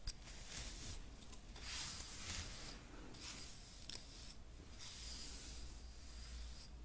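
Close-up hairbrush sounds: bristles swept in soft, hissy strokes roughly once a second, with a few light clicks among them.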